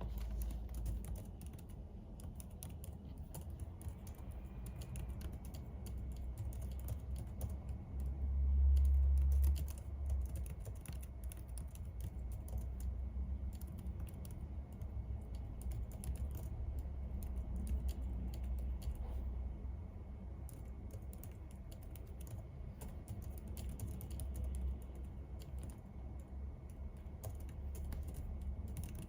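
Typing on a computer keyboard: irregular runs of key clicks, over a low rumble that swells briefly about a third of the way in.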